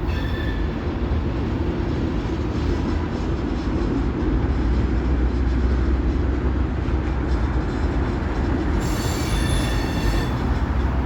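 Train running on rails with a steady low rumble. About nine seconds in, its wheels squeal for a second or so with a high, ringing tone.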